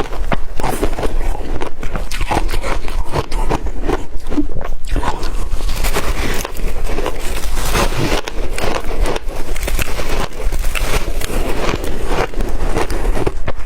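Shaved ice dipped in water being chewed, a dense run of wet crunching and crackling bites.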